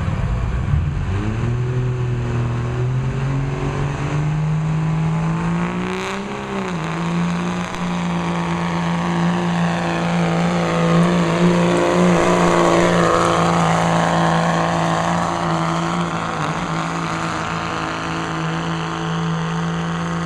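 Pulling truck's engine at full throttle during a truck-pull run: the pitch climbs over the first few seconds, wavers once, then holds steady at high revs under load to the end.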